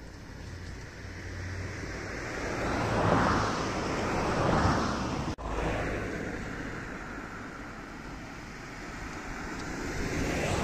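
Regional passenger train passing on the line, the rush of its wheels on the rails swelling to its loudest about three to five seconds in, then cut off abruptly; after that a steadier outdoor rushing noise that swells again near the end.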